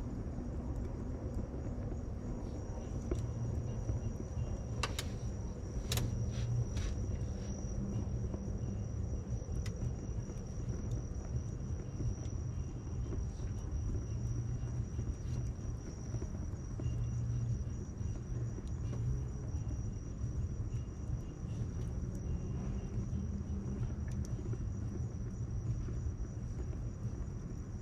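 Wood fire crackling with a few scattered sharp pops, over a steady low rumble like distant city traffic and a continuous high insect trill.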